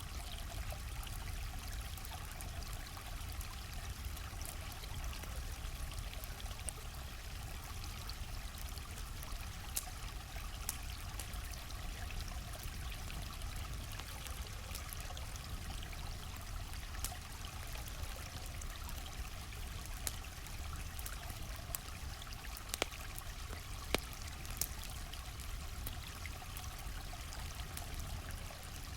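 Stream flowing steadily, with a low rumble under the water noise. Now and then a campfire gives a single sharp crackle or pop, several of them in the middle of the stretch.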